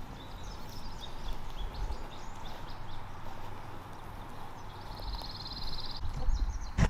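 Small songbirds calling: a few short high chirps, then a fast, even trill about a second long near the end, over steady low outdoor noise. A sharp knock right at the end.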